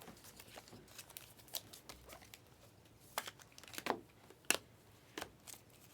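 Trading cards and a foil pack wrapper being handled: light crinkling and scattered clicks as cards are flipped and slid, with a few sharper snaps about three to five seconds in.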